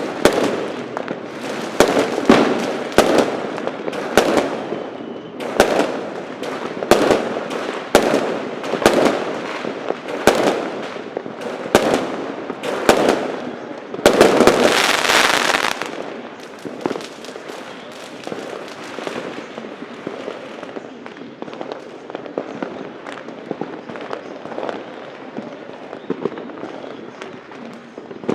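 Fireworks and firecrackers going off: a run of sharp bangs about one a second, then a dense, louder burst of rapid crackling near the middle, after which only fainter, scattered distant pops and crackle remain.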